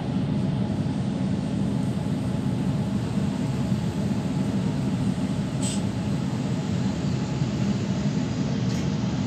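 Steady low rumble of electric trains running side by side across the bridge, heard from inside a carriage through its window. A short hiss comes just after halfway, and a fainter one near the end.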